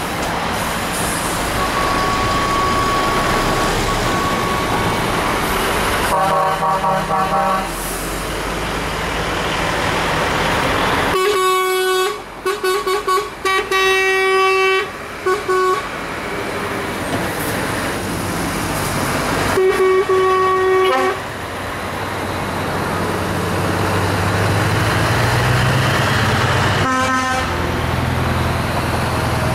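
Trucks in a convoy sounding their air horns over steady engine and road noise: a blast, then a string of short toots, then another long blast and a short one. Near the end a truck engine's note rises as it pulls away.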